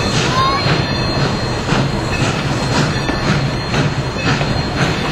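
Railroad passenger car rolling along the track: a steady rumble with repeated clacks of the wheels over rail joints, and a brief high wheel squeal just after the start.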